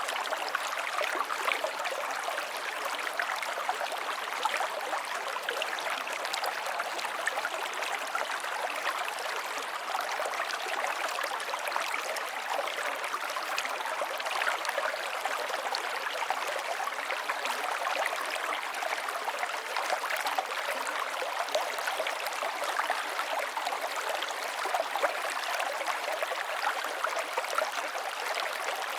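River water flowing steadily over stones, a continuous splashing and burbling rush with no breaks.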